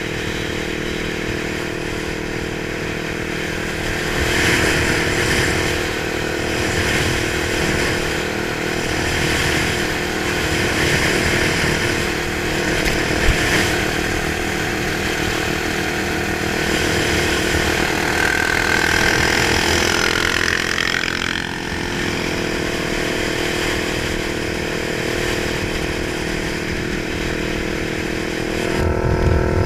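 Kawasaki 900 motorcycle engine running, its revs rising and easing off several times, with a clear drop in revs about two-thirds of the way through.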